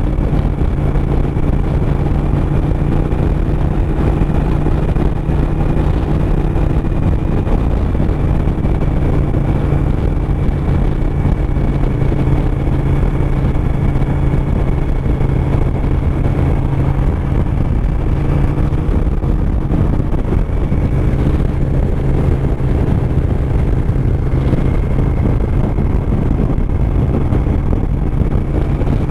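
Suzuki SV1000S V-twin engine running steadily at cruising speed, with a constant low engine note and wind rushing past the GoPro microphone.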